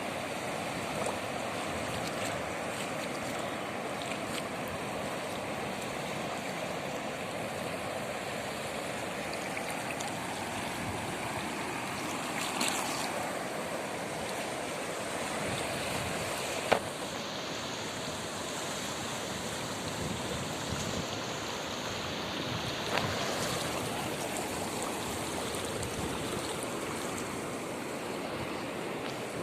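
Steady rushing water noise, with a sharp click a little over halfway through.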